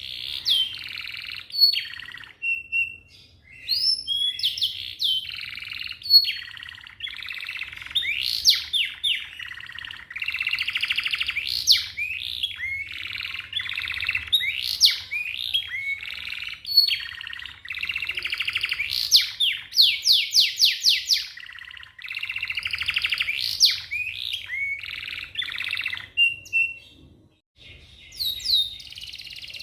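Canary singing a long, fast song of rapid rolling trills and quick rising and falling whistled sweeps, with only brief pauses between phrases.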